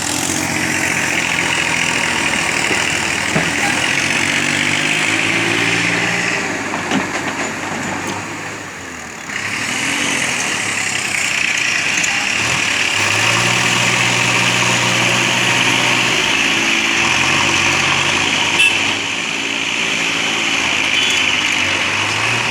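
Heavy diesel engine running under load, its speed rising and falling repeatedly, with a brief easing of the revs about a third of the way through.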